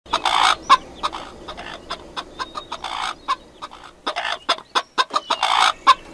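Chickens clucking: rapid short clucks broken by about four longer, harsher calls.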